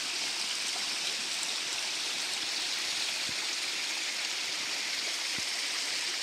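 Steady rush of running water, like a stream flowing over rocks, starting abruptly with a few faint drips or ticks within it.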